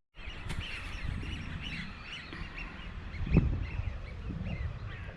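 Many birds calling over one another in short, high calls, over a low rumble, with one loud bump about three seconds in.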